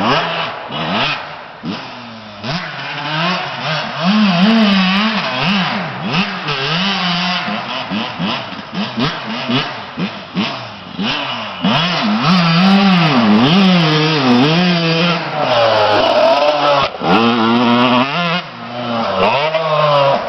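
Dirt bike engine being ridden hard, its revs climbing and dropping over and over as the throttle opens and closes and the gears change.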